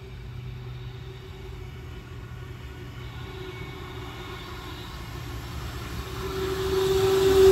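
Sydney Trains Tangara electric suburban train approaching along the track. Its running noise, a rumble with a steady hum, grows much louder over the last couple of seconds as it nears.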